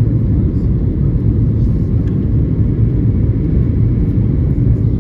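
Steady low rumble inside the cabin of a Boeing 737-800 during descent: engine and airflow noise from its CFM56-7B turbofans heard from a rear economy seat.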